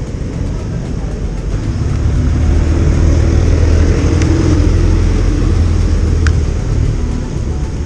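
Motorcycle riding on the road: a steady low engine and wind rumble that grows louder about two seconds in and eases off near the end, with two short sharp high sounds in between.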